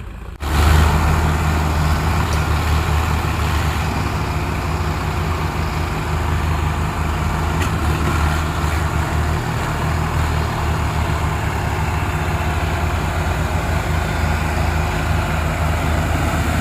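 Diesel tractor engine running steadily and loud, working to pull the tractor out of deep mud. It comes in abruptly about half a second in.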